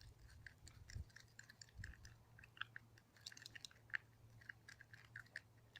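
Brush dabbing hardener-mixed resin over glass-fibre strands: faint, irregular sticky crackles and clicks, with a couple of soft thuds about one and two seconds in.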